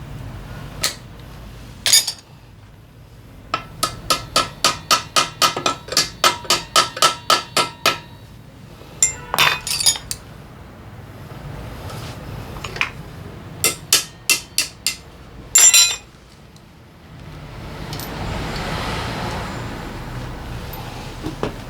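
Metal tool tapping on engine parts, hammer-like, about three or four even strikes a second for several seconds, with a slight metallic ring. Scattered clinks follow, then a steady rushing noise lasting a few seconds near the end.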